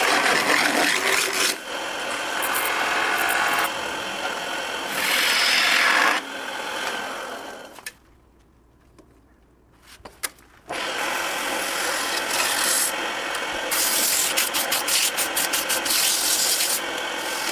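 Hand tool scraping and rasping against a hard surface in several spells that change abruptly, broken by a near-silent gap of about three seconds midway.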